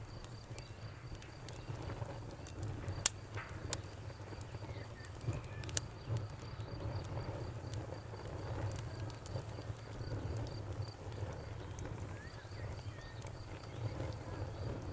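Wood campfire burning with a low rumble and scattered sharp crackles and pops, the loudest about three seconds in. A cricket chirps in a steady, even high pulse behind it.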